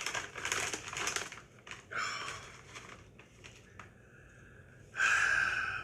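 A ghost pepper tortilla chip crunched and chewed in the mouth for about a second. Then come noisy, hissing breaths through the mouth, the loudest one near the end.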